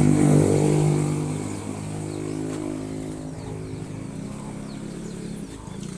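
A motor vehicle's engine passing by, loud at first and fading over about two seconds, followed by a fainter steady engine hum.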